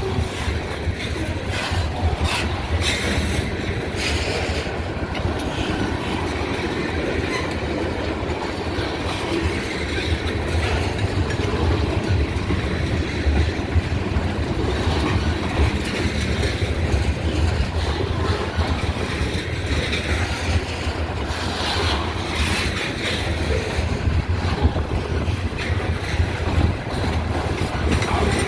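Delmarva Central freight train's cars rolling past steadily, their wheels clicking over rail joints in short clusters.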